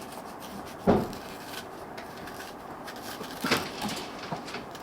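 A dull knock about a second in, then a lighter clatter of clicks about three and a half seconds in.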